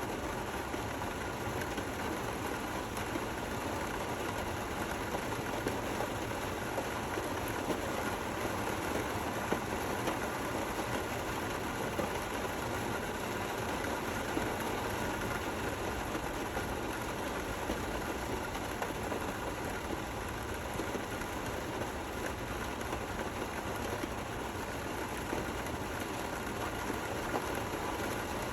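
Gentle rain falling steadily, an even hiss.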